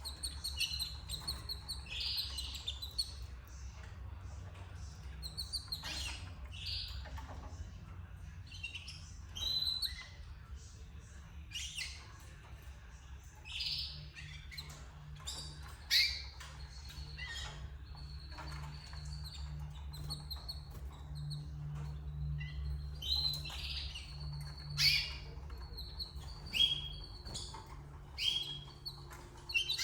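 Canaries chirping and calling in short, scattered notes, over a steady low hum.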